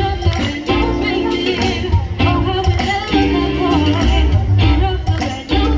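A woman singing a song over band accompaniment with a heavy bass line and a steady percussion beat.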